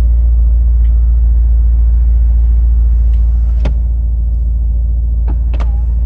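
Mercedes-AMG SL 63's electric soft top closing, over a steady low rumble in the cabin, with a few sharp clicks from the roof mechanism in the second half.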